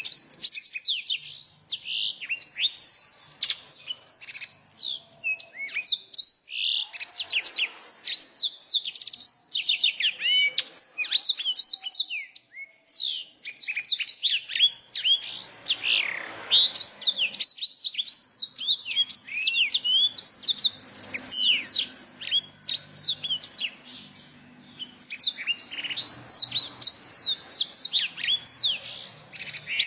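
Small songbirds singing a fast, varied twittering song of rapid high chirps and sweeping notes with only brief pauses: a blend of black-throated canary, bar-winged prinia and yellow-fronted canary song.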